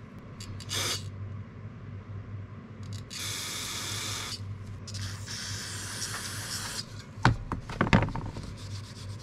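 Aerosol carburetor cleaner sprayed in hissing bursts: a short blast, then a longer one of about a second, then a fainter one. Two sharp knocks of parts or the can being handled follow, over a steady low hum.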